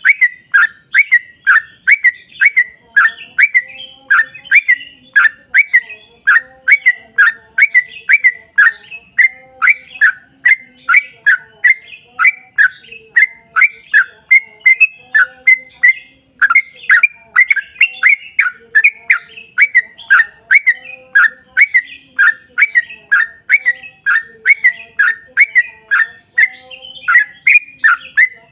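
Yellow-vented bulbul (trucukan) calling in a long, unbroken run of short chattering notes that drop in pitch, about two to three a second.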